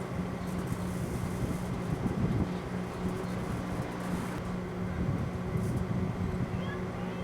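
1985 Montgomery Ward microwave oven running, a steady electrical hum with a few faint, short crackles.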